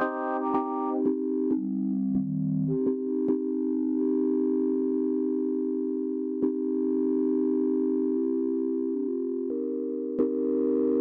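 Elektron Syntakt's SY Chord digital synth engine playing chords with no effects: a few short repeated chord stabs, then longer held chords that change every second or few.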